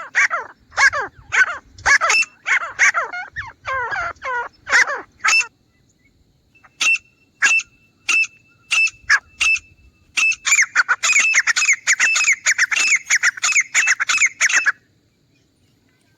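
Grey francolin calling. A run of loud, harsh, repeated notes lasts about five seconds, followed by a pause broken by a few single sharp notes. Then comes a fast, dense series of notes that stops near the end.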